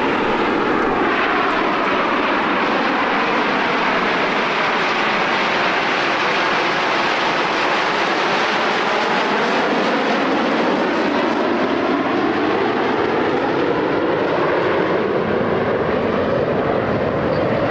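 Jet aircraft flying past at an air display: a loud, steady rushing engine noise whose pitch bands sweep slowly down and then back up as it passes.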